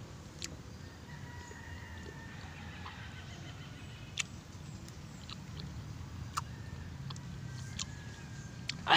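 A person chewing calamansi with chili: a few faint clicks and smacks from the mouth over a steady low outdoor rumble. A short, loud breathy sound like a sharp exhale comes near the end.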